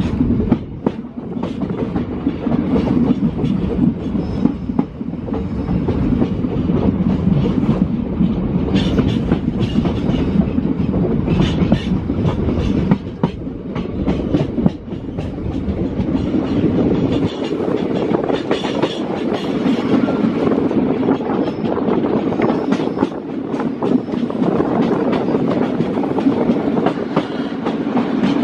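Passenger train running along the track, heard from inside a coach: a steady rumble with frequent clicks of the wheels over rail joints. The deepest part of the rumble drops away about two-thirds of the way through.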